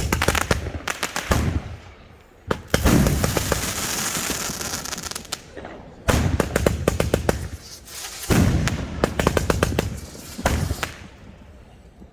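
500-gram consumer firework cakes firing in waves of rapid shots and bursting reports, each volley a second or two long. The longest, densest stretch of bursts comes about three to five seconds in.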